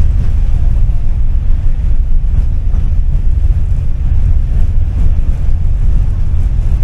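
Tram running along its rails: a loud, steady low rumble.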